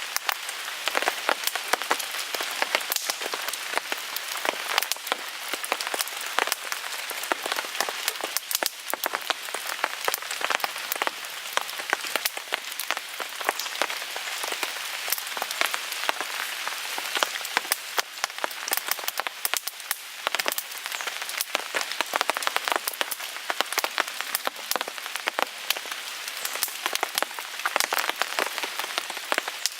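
Steady rain falling on a tarp overhead, a hiss full of dense, sharp ticks of drops striking it.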